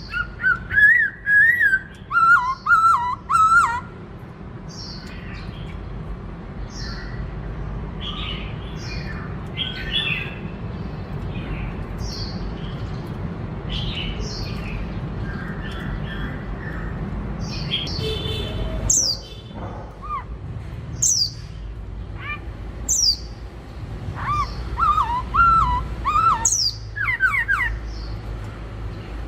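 White-cheeked laughingthrush singing a varied song of short whistled notes and rising and falling phrases, some sharp and high, over a steady low background rumble.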